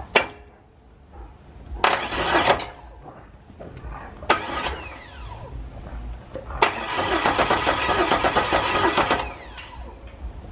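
Chevy Nova's starter cranking the engine with its spark plugs out for a compression test: two short bursts of cranking, then a longer spell of about two and a half seconds with an even pulsing, the engine not firing.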